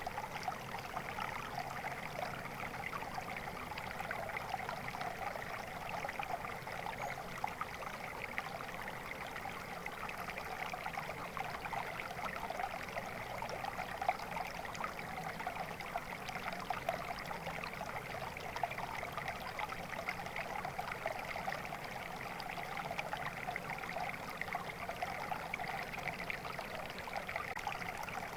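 Flowing water, a steady stream trickling and splashing with no let-up.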